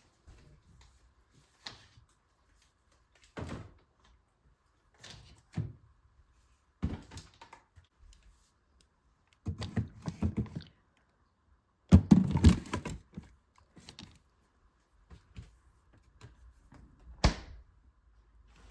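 Scattered knocks, thuds and handling noises of objects being set down and moved about, with short quiet gaps between them. There is a denser run of thuds a little past the middle and one sharp click near the end.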